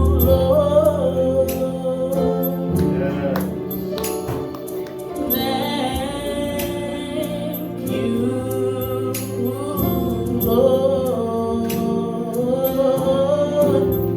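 Gospel music: singing over held instrumental chords, with percussion hits throughout.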